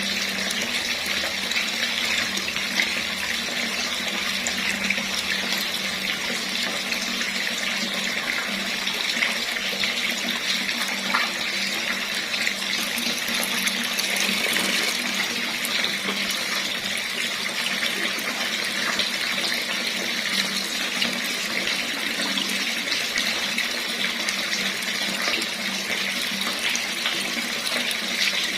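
Water running steadily from a tap, a constant even rush that does not change.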